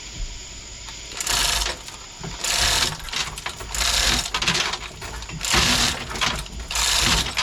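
A hoist raising a boat's MerCruiser engine in short spells of mechanical noise: about five separate bursts, each under a second long.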